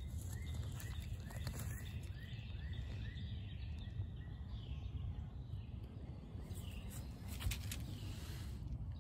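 A bird calling a run of about eight short, repeated notes, roughly two a second, over the first three seconds, with a few more single calls later. Under it runs a steady low rumble, and a couple of sharp clicks come past the middle.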